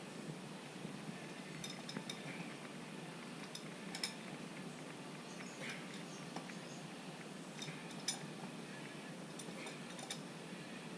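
Faint, scattered metallic clicks and clinks of hand tools, a second or two apart, over a low steady background, as 10mm fasteners holding a plastic undertray are worked loose under the car.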